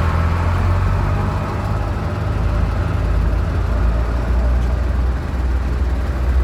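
Ford farm tractor's engine running steadily as it drives past, a deep, constant engine note.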